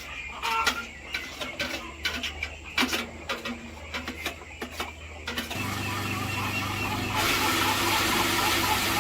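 Scattered clicks and knocks, then a steady engine-like hum starts about halfway through and grows louder with added noise near the end.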